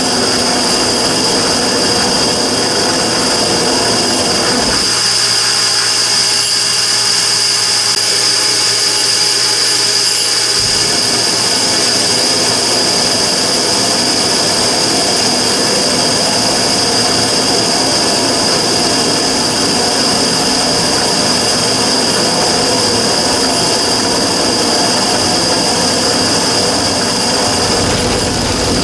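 Immersion-tube burner running with a loud, steady rushing noise and a prominent high-pitched hiss, the abnormal noise the burner is being recorded for. About five seconds in the deep rumble drops out for about six seconds, then comes back.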